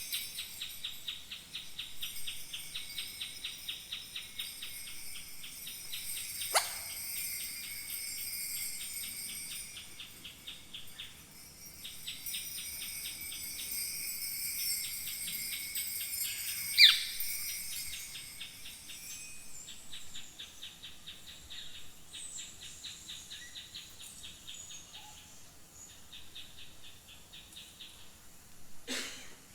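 Kaskawillas, Mapuche bronze bells, shaken in a fast, even jingling rhythm that stops and starts in runs, imitating falling water. Two brief sliding tones stand out, about a third of the way in and past the middle.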